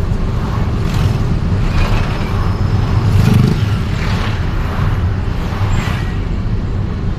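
Steady low rumble of a road vehicle moving through city traffic, with brief swells of road and traffic noise every second or so.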